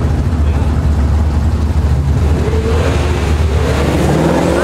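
Twin-turbo Nissan 350Z's 3.5-litre V6 running with a deep, uneven rumble, then revs climbing steadily from about halfway in.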